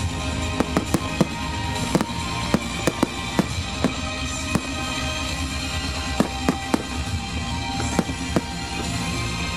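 Fireworks display: aerial shells bursting in a quick, irregular run of sharp bangs, about two a second, with music playing throughout.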